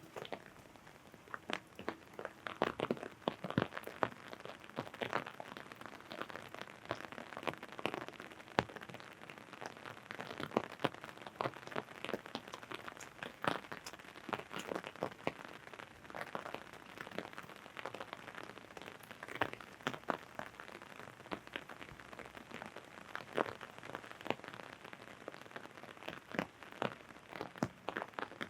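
Rain falling on an umbrella: a dense, irregular patter of drops tapping on the canopy over a steady hiss of rain.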